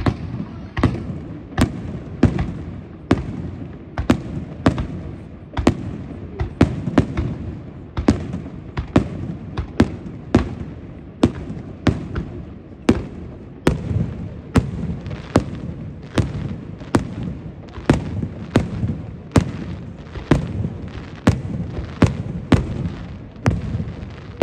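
Aerial firework shells bursting in a steady series of sharp bangs, roughly three every two seconds, with a low rumble between the bangs.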